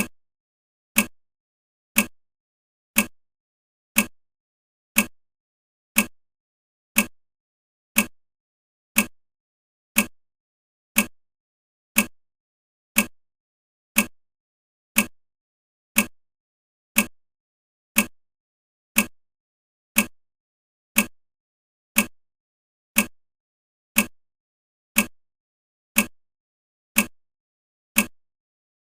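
Countdown timer ticking like a clock: one short, sharp tick every second, evenly spaced.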